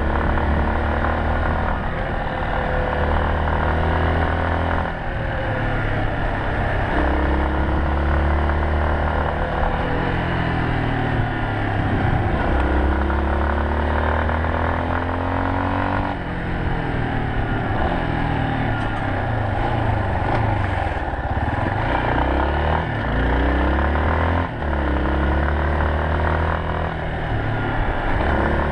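Yamaha Serow 250's single-cylinder four-stroke engine running as the motorcycle is ridden, its revs rising and falling repeatedly, with several short breaks in the note as the throttle is closed and opened again.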